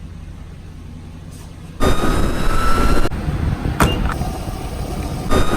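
Motor vehicle sounds: a low steady hum, then about two seconds in a loud rushing noise with a thin, slowly rising whine. It breaks off, a sharp knock follows, and the rush and rising whine return near the end.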